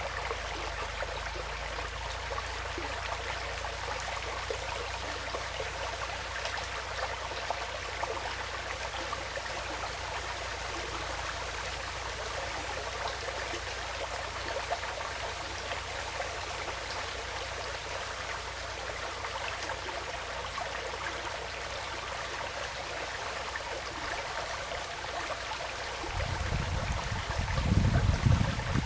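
Forest stream flowing with a steady, even rush of water. About two seconds before the end, a low rumble swells up louder than the water.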